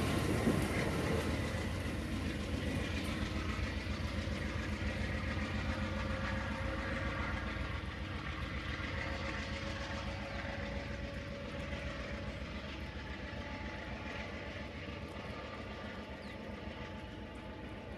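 Amtrak passenger train rolling away along the track: the rumble and clatter of its wheels on the rails fading steadily as it recedes, with a few faint held tones above the rumble.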